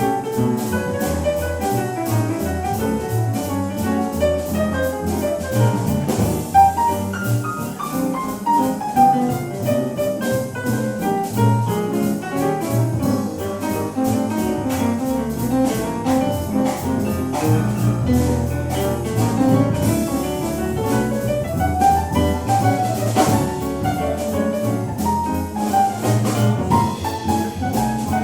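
Live jazz combo playing an instrumental swing break: piano running up and down in fast runs over double bass and drum kit keeping a steady beat.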